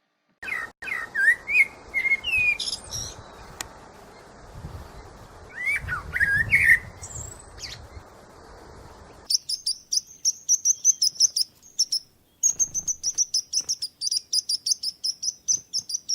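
Songbirds: varied whistled phrases over a steady hiss, then about nine seconds in an abrupt switch to a rapid run of high chirps, several a second, broken by a short pause near twelve seconds.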